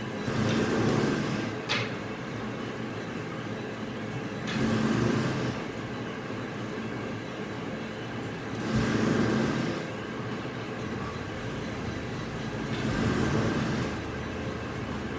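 Machinery running with a steady hum, with a rushing surge lasting about a second that repeats every four seconds or so, like a machine working in a regular cycle. There is one sharp click shortly after the first surge.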